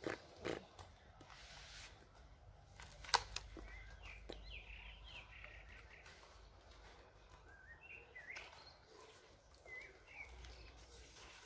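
Faint outdoor birdsong: short, scattered chirps over a low background hum. A few sharp clicks stand out, the loudest about three seconds in.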